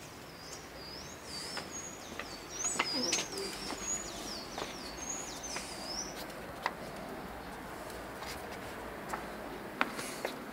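A bird singing a run of quick, wavy high-pitched notes, repeated over and over, stopping about six seconds in. Scattered sharp clicks come throughout.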